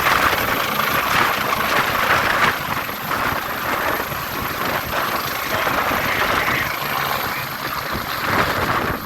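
Helicopter running close by, a steady loud engine and rotor noise that eases slightly a few seconds in.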